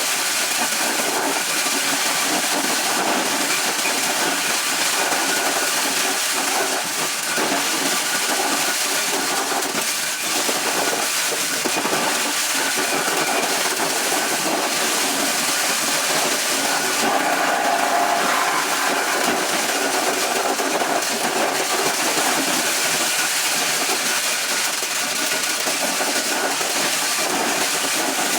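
Corn shelling machine running steadily: an even, dense rushing noise over a faint motor hum.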